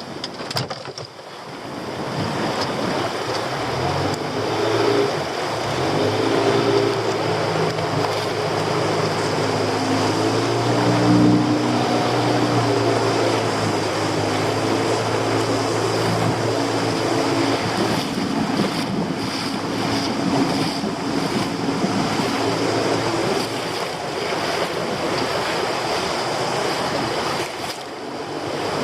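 A small fishing boat's engine running under the wash of the sea and wind on the microphone; the engine hum comes in a few seconds in and fades a few seconds before the end.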